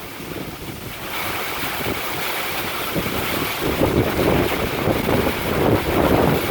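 Strong wind gusts buffeting the microphone as a gusty shower line passes, picking up about a second in and buffeting harder from about three and a half seconds on.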